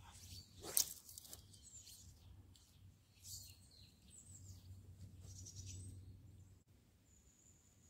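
Small birds chirping and calling faintly in short, high notes, with a sharp click about a second in and a thin held whistle near the end.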